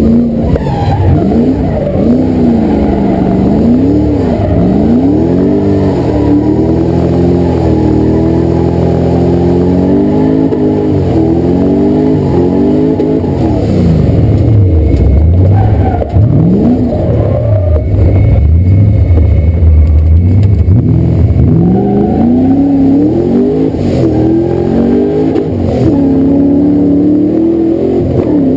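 A drift car's engine, heard from inside the cabin, revs hard and drops away over and over as the car drifts. Its pitch rises and falls every second or two.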